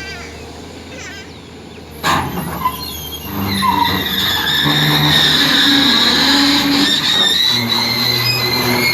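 Heavy machinery during the unloading of an amphibious excavator from a truck: a sudden loud clank about two seconds in, then an engine running with a steady high-pitched squealing whine, its low note stepping up and down.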